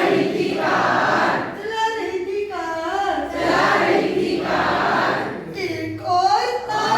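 A group of voices singing together, chorus-like.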